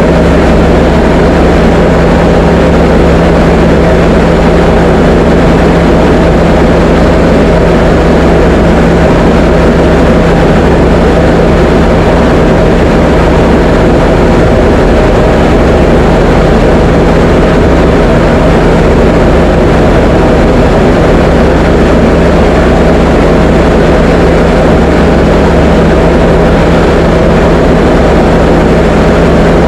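Diamond DA20 light aircraft's engine and propeller running steadily in flight: a loud, even drone with a constant low hum that does not change pitch.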